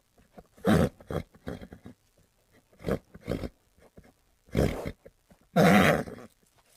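A horse making a series of short, rough, breathy sounds, about seven in all, with the longest and loudest near the end.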